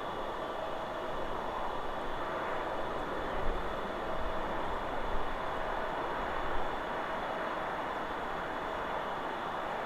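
Steady wind rushing through forest trees, a continuous even noise, with a few brief louder gusts near the middle.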